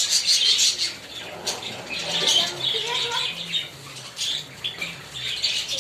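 A flock of small caged birds chirping and chattering, with many quick overlapping calls, busiest in the first second and again near the end.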